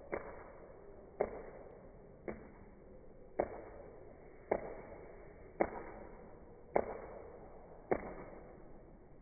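A sharp knock or tick repeating at an even pace of just under once a second, eight times, each with a short fading tail.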